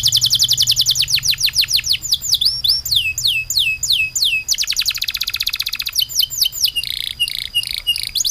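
A songbird singing: fast trills of high notes that sweep downward, about ten a second, alternate with slower runs of falling whistles, about three a second. A thin steady high tone runs beneath.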